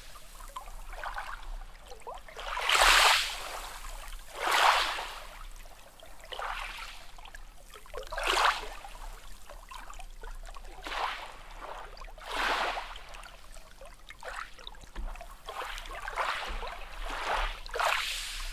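Small sea waves lapping and splashing in short, irregular surges every one to four seconds, the loudest about three and four and a half seconds in.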